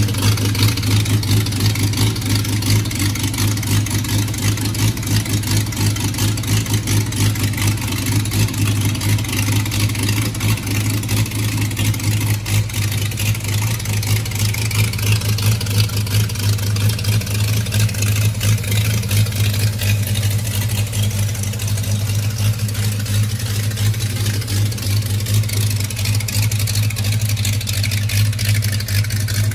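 Rebuilt Chevrolet 292 inline six-cylinder engine, fitted with a four-barrel carburettor and tube headers, running steadily at an even speed on an engine stand.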